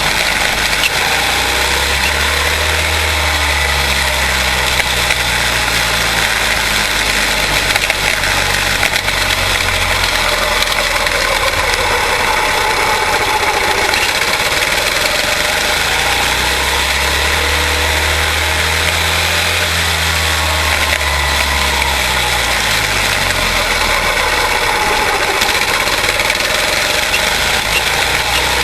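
Pack of quarter midget race cars with Briggs & Stratton Animal single-cylinder engines running at racing speed around the track, the sound swelling and falling in pitch as the cars pass, twice.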